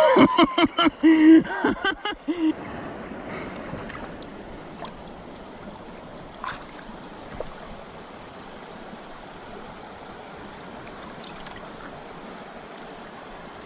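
Steady rush of flowing river water, with a few faint clicks about five, six and a half and seven and a half seconds in. A man's voice sounds briefly in the first two seconds.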